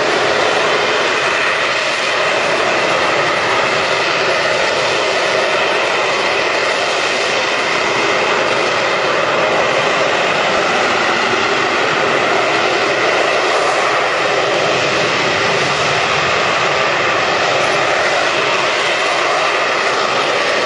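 Harrier jump jet's Rolls-Royce Pegasus vectored-thrust turbofan at high power, holding the jet in a hover: a loud, steady jet engine noise with no change in level.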